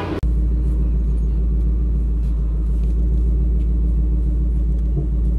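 Ford Mustang GT500's V8 engine running steadily at low speed, a deep even rumble.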